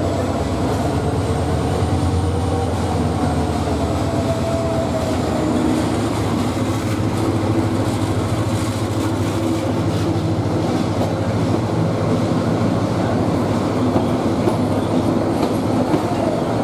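Bangladesh Railway class 2900 diesel-electric locomotive No. 2922 running past close by with a steady engine drone, followed by its passenger coaches rolling by with wheel noise on the rails.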